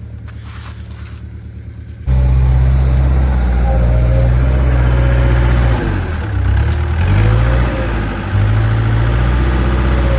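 Skid steer engine running; about two seconds in it suddenly gets much louder, and between about six and eight seconds in the engine note sags and wavers with a whine bending down, as the machine labours against a load.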